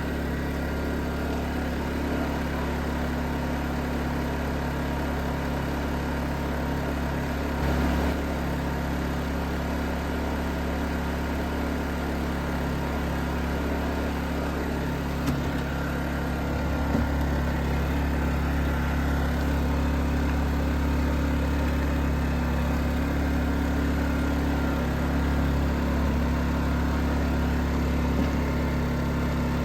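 Predator 2500 inverter generator's small single-cylinder four-stroke engine running steadily with an even hum. It gets slightly louder from about 17 seconds in, with a few faint knocks along the way.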